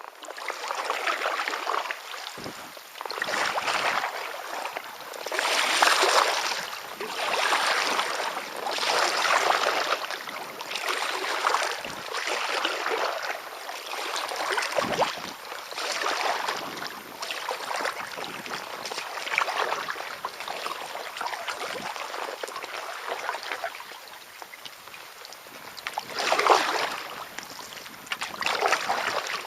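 Kayak paddle strokes splashing through calm water in a steady rhythm, one swell about every two seconds, with a few dull knocks.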